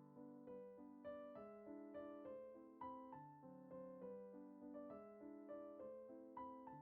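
Soft background piano music: a gentle melody of evenly paced notes over held chords.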